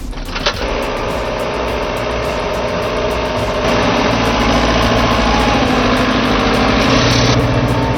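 A heavy machine's engine running steadily, getting louder and noisier from about halfway through, with a brief click near the start.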